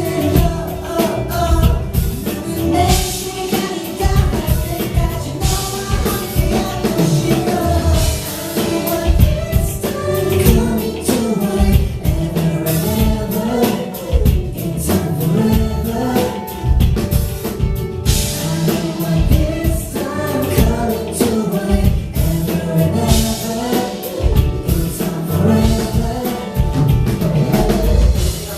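Live pop music: a male singer over a backing track with a steady drum beat, heard through concert PA speakers.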